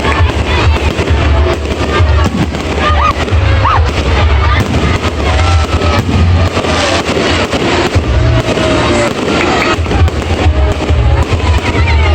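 Fireworks going off in rapid succession: a dense stream of cracks and bangs over a heavy low rumble, with music playing alongside.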